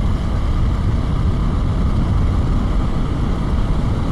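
Steady wind rush and road noise while riding a Husqvarna Svartpilen 401 motorcycle, its engine running underneath at riding speed.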